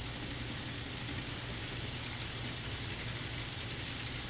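N scale model locomotives running on the layout: a steady, even low hum with a hiss over it.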